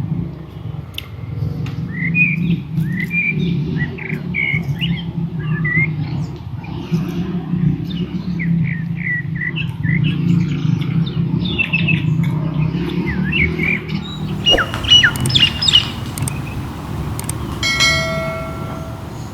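Wild birds chirping and squawking in many short calls over a steady low rumble. A short pitched tone sounds near the end.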